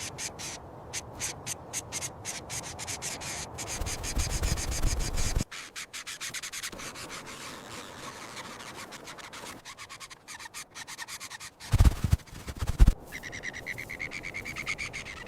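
Rapid scratching and rubbing, a dense run of quick scrapes, with two heavy low thumps about twelve seconds in and bird chirps starting near the end.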